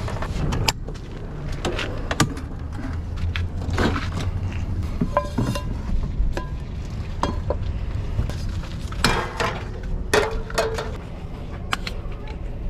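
Scattered clinks, clatters and knocks of cookware, utensils and containers being handled while setting up to deep-fry, over a steady low rumble.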